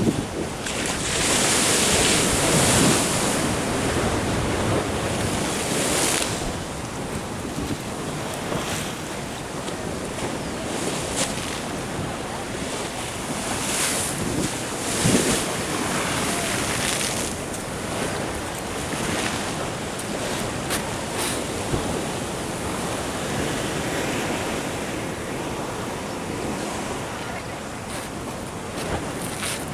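Ocean surf washing in, swelling and easing several times, with wind buffeting the microphone.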